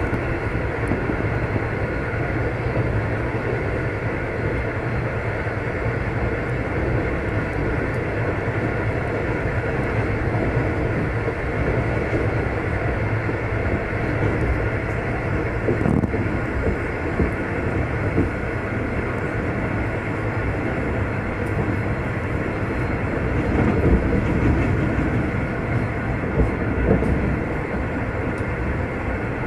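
V/Line locomotive-hauled passenger carriage running along the track at speed, heard from on board: a steady rumble. A sharp knock comes about halfway through, and a few louder jolts come near the end.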